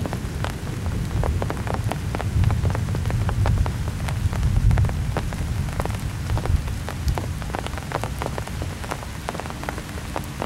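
Heavy summer-storm rain, with many separate drops striking a hard surface close to the microphone over a steady hiss. A low rumble runs underneath and swells in the middle.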